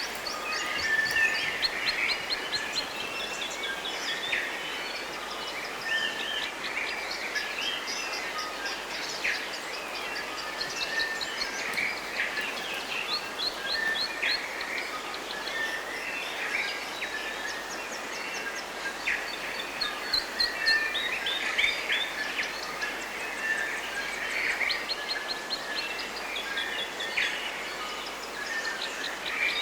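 A chorus of many songbirds calling and chirping at once, with quick runs of high repeated notes, over a steady background hiss.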